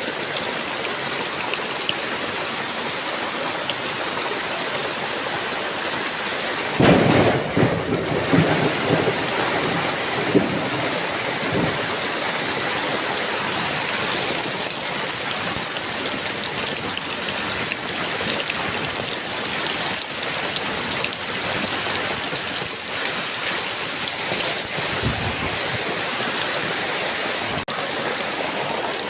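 Heavy rain falling steadily. About seven seconds in, a loud thunderclap breaks in and rumbles on for about three seconds. A fainter rumble of thunder comes near the end.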